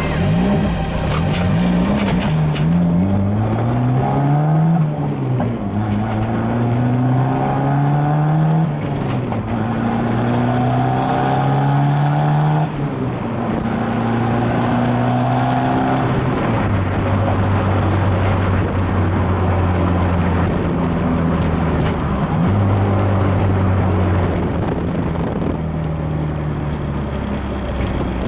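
Turbocharged Nissan SR20DE four-cylinder in a Sentra accelerating through the gears. The engine note climbs and drops at each shift about five, nine and thirteen seconds in, then holds steady at cruise.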